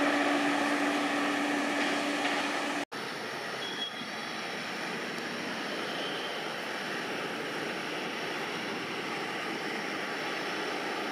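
A passenger train's coaches running away from the listener with a steady hum, cut off abruptly about three seconds in. After the cut, a steady, even background rumble with no distinct events.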